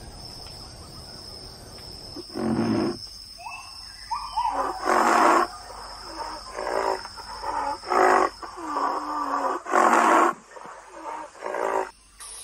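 A wild animal calling over and over, about eight loud calls in ten seconds starting a couple of seconds in, with a steady high thin tone behind.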